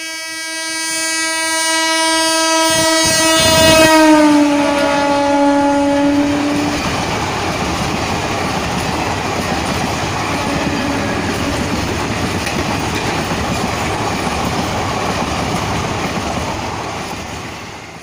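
A passenger train's locomotive horn sounds one long chord as it approaches and drops in pitch as the locomotive passes, about four seconds in. Then come the rumble and rush of the coaches rolling past at speed, fading near the end.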